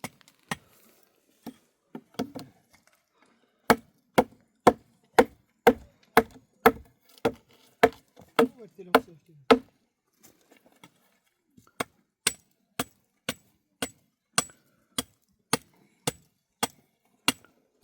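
Repeated hard strikes of a hand tool, about two a second, falling silent for a couple of seconds near the middle before going on.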